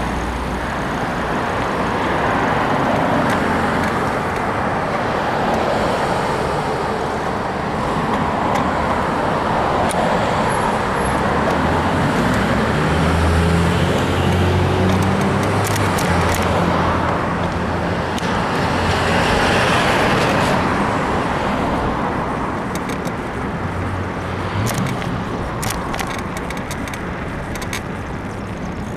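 Road traffic: cars passing one after another, their noise swelling and fading, with a heavier engine hum through the middle. A few short clicks come near the end.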